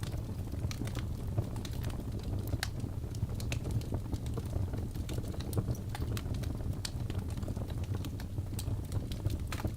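Birch logs burning in a fireplace: a steady low rumble of the flames with irregular sharp crackles and pops from the wood, several a second.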